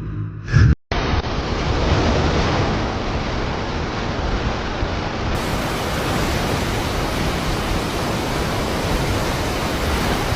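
Rough sea and wind: a steady rushing noise of surf, starting abruptly just under a second in.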